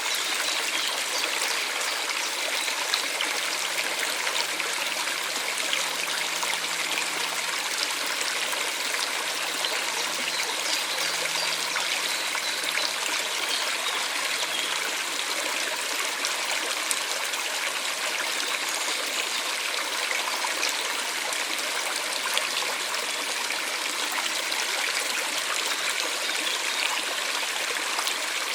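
Steady, even rush of running water, like a stream or small outflow, with no change throughout. A faint low hum sits under it from about 3 to 15 seconds in.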